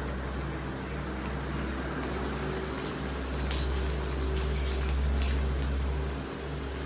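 Breaded potato donuts deep-frying in hot oil in a pan: steady sizzling with scattered crackles and pops over a low steady hum, a little louder in the middle.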